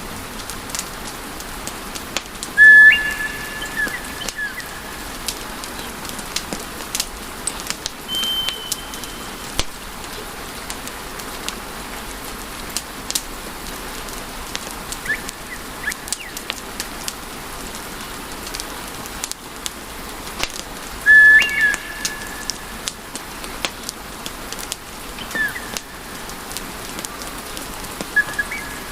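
Wood fire crackling: a steady hiss dotted with many small sharp pops. Twice, about three seconds in and again near twenty-one seconds, a short high whistle stands out as the loudest sound, with a few fainter whistles in between.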